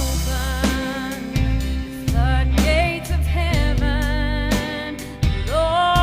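Gospel song: a woman sings long held notes with vibrato over bass, drums and other instruments.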